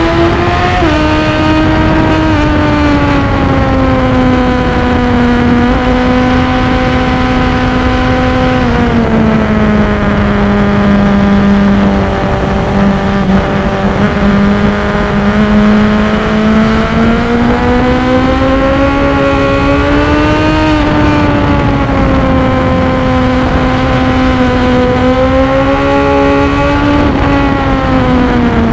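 Sport motorcycle engine pulling hard at high revs on a racetrack, its note rising and falling through the corners with a few sudden drops in pitch at gear changes or throttle lifts, over steady wind noise on the microphone.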